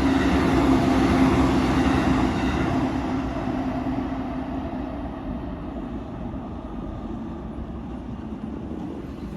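JR Yokosuka Line electric train passing over a level crossing and running away, its wheel-on-rail rumble fading steadily, with a low hum dropping out a couple of seconds in. The sound cuts off suddenly at the end.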